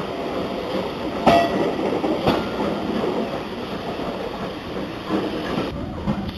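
Train rolling past, its wheels clattering over the rail joints with a steady rumble and two sharp knocks near the start.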